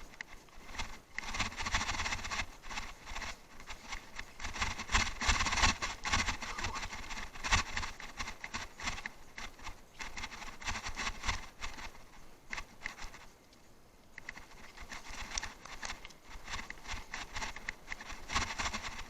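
Bicycle rattling and clattering over rough off-road ground: dense, irregular knocks in uneven bursts, with a quieter stretch about two-thirds of the way through.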